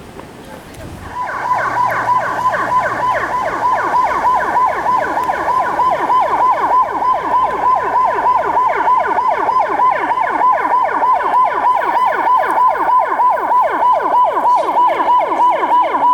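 Electronic emergency-vehicle siren in its rapid mode: a quick falling sweep repeated about four times a second. It starts about a second in and cuts off abruptly near the end.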